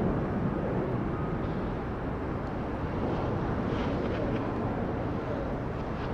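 Jet airliner engines, a steady rumble.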